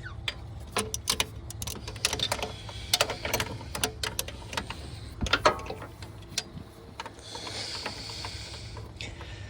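Metal hand tools clinking and clattering in irregular sharp clicks as a socket, extension and swivel are worked into place, followed by a softer scraping near the end.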